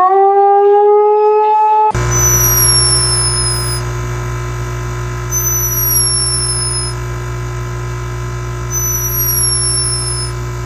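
A long held call, rising slightly in pitch, cuts off after about two seconds. A steady electronic drone with a low hum follows, with a high falling chirp repeating about every three and a half seconds.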